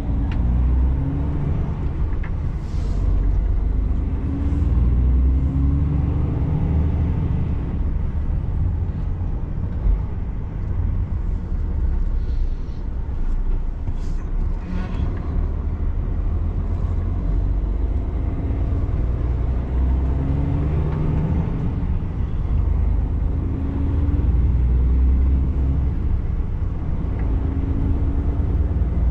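Truck's diesel engine running while under way, its pitch climbing and dropping several times as the revs change.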